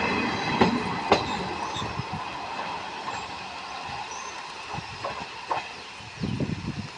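Passing train's wheels running over the track, clicking at rail joints, with a faint squeal from the wheels; the sound fades steadily as the train moves away.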